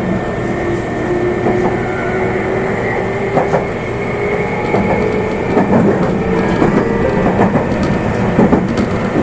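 Meitetsu limited express electric train running on the line: a steady rumble with a faint motor whine that climbs slowly in pitch as the train picks up speed, and wheels clicking over rail joints.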